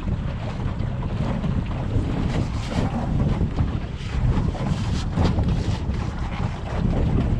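Motorboat under way, its engine a steady low rumble, with wind buffeting the microphone and water noise.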